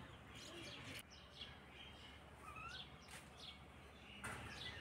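Faint chirping of small birds: scattered short chirps and calls, with one rising whistled call about two and a half seconds in.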